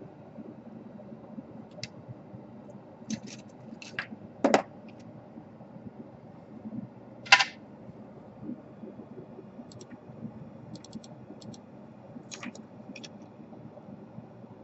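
Scattered small clicks and taps of tools and plastic laptop parts being handled, irregular and a few at a time, with two louder sharp clicks about four and a half and seven and a half seconds in.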